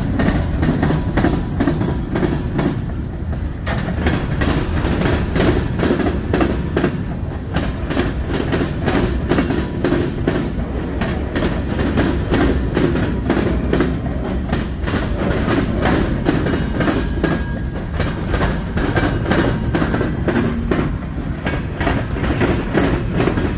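A short freight train of hopper cars rolling past, its wheels clicking rapidly and continuously over the rail joints above a steady low rumble.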